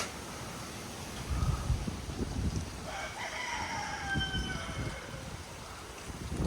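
A rooster crows once, a drawn-out call starting about three seconds in, over gusty wind rumbling on the microphone.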